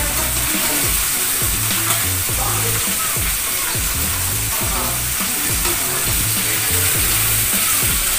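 Food sizzling as it fries in a pan, with stirring, a steady hiss throughout.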